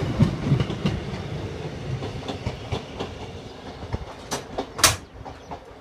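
Two coupled Class 153 diesel multiple units passing over a level crossing, wheels clicking over the rail joints. The rumble fades away, with a loud sharp click near the end.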